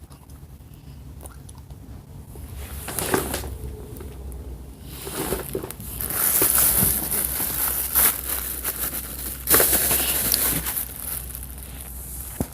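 A child biting into and chewing a wax crayon close to the microphone: irregular crunching and crackling, louder in the second half.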